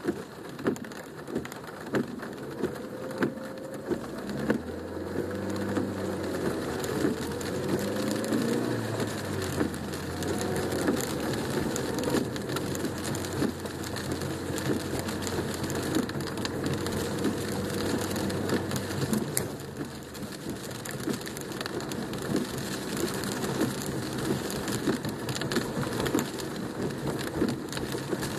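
Heavy rain drumming and pattering on a car's roof and windscreen, heard from inside the cabin. In the first few seconds there are sharp regular ticks about 0.7 s apart. From about four seconds in the car's engine is heard pulling away, its pitch rising, and it settles back under the rain sound later on.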